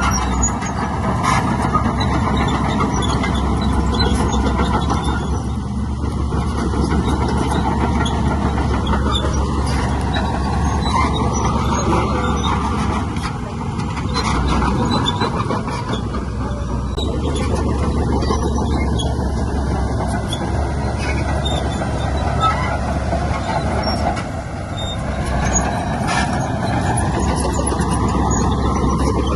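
Heavy diesel earthmoving machinery running under load, a continuous engine sound that eases briefly a couple of times.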